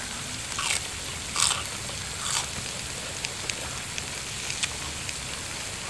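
Crunchy bites and chewing of raw cabbage and grilled food: three crisp crunches in the first two and a half seconds, then a few light clicks, over the faint steady sizzle of a charcoal-heated moo kratha pan.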